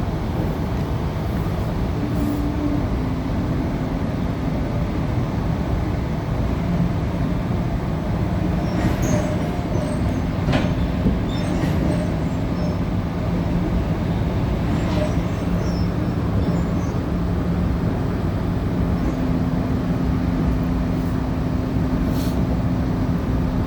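Inside a moving Tangara electric train car: a steady rumble of wheels on the rails with a constant low hum. Occasional brief clicks and rattles come through, several of them about halfway through and one more near the end.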